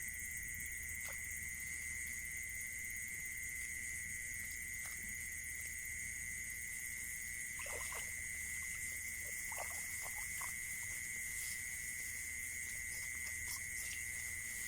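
Steady chorus of crickets or other singing insects, with a few brief rustling or handling noises about eight and ten seconds in.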